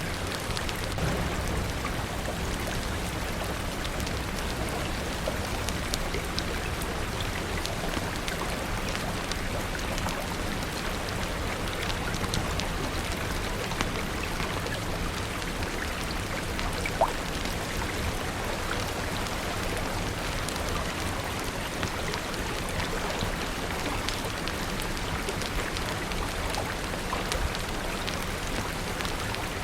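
Steady rain falling, with scattered small crackles and one sharper pop about 17 seconds in, from a wood fire crackling.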